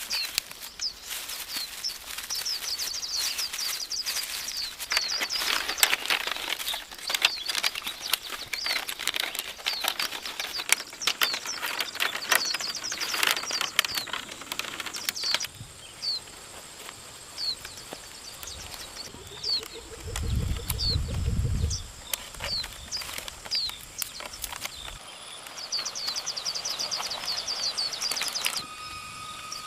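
Forest ambience: a bird gives short, high, falling chirps, in quick runs near the start and near the end and one at a time in between. Over roughly the first half comes a dense run of sharp knocks and cracks, wood being chopped or broken, and about two-thirds of the way in there is a brief low rumble.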